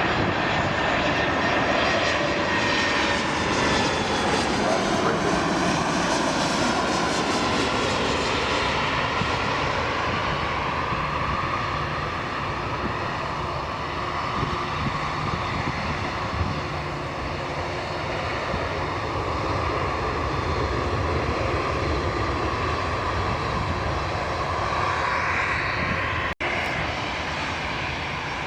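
Jet airliner engines close by, a whine whose pitch slides down over the first few seconds as the aircraft passes, then a steady engine rumble. The sound cuts out for an instant near the end.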